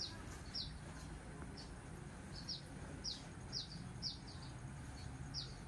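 A small bird chirping over and over: short, high, falling chirps, roughly two a second, over a faint steady low hum.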